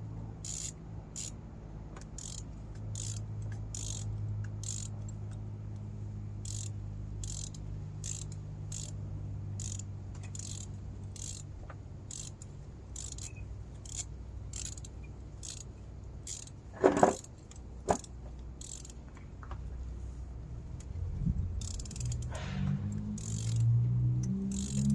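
Socket ratchet clicking at about two clicks a second as a spark plug is turned into its cylinder head, over a steady low hum, with two louder metal knocks partway through. Music comes in near the end.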